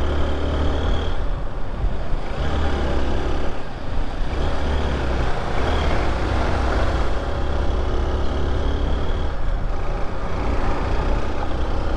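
Motorcycle riding along a road: steady engine and road noise with a low rumble that dips briefly a few times.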